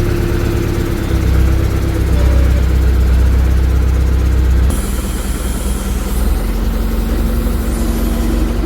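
Heavy diesel engine running steadily. About a second in, its note deepens and gets louder, as if under load, and about halfway through the sound changes abruptly to a lighter, steady running note.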